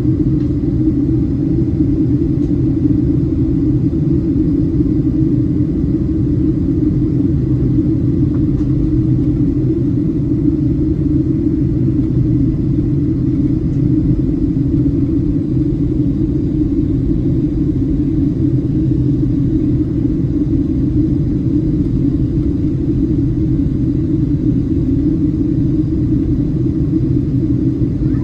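Steady drone of a Boeing 737-700 cabin in flight: its CFM56 jet engines and the airflow over the fuselage make an even, unchanging low rumble with a faint steady hum.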